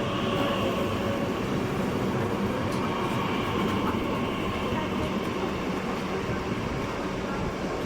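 Train moving through the station: a steady rolling rumble with a few faint steady tones, easing off slightly near the end.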